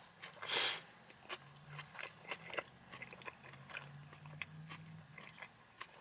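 Person chewing a mouthful of food with soft, wet mouth clicks, and a louder crunch about half a second in. A faint low hum runs underneath.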